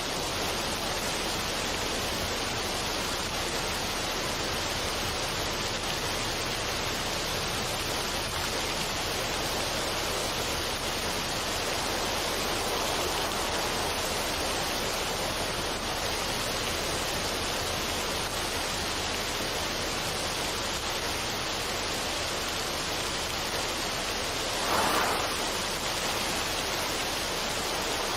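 Steady, even rushing noise, like falling water or rain, with one brief louder swell near the end.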